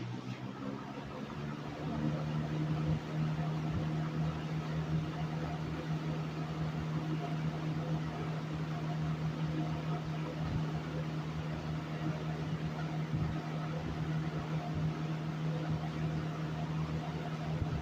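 1970s Westinghouse 20-inch box fan, model AW12-1, with its two-speed Marco motor coming up to high speed over the first couple of seconds and then running steadily: a steady motor hum under the rush of air from the blades. The motor bearings are freshly cleaned and serviced, and it runs smoothly.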